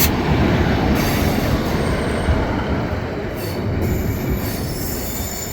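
Diesel passenger train running along the track close by, a steady heavy noise that eases slightly toward the end, with a faint high squeal from the wheels on the rails.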